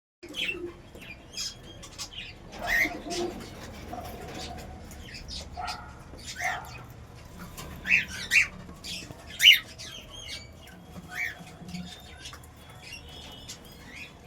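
Cage birds chirping and squawking: short, sharp calls at irregular intervals, the loudest about nine and a half seconds in.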